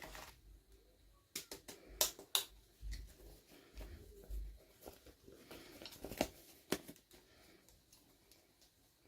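Miniature toys and their plastic packaging being handled during an unboxing: scattered soft clicks, taps and crinkles, with a few sharper clicks about two seconds in and again about six seconds in, then quiet.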